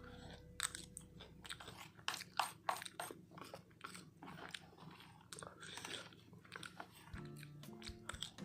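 Crunchy snack food being bitten and chewed: a run of irregular, sharp crunches.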